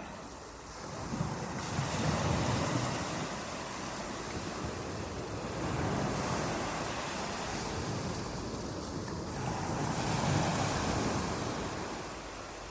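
Water waves washing in with a steady rush that swells and falls back three times, about every four seconds.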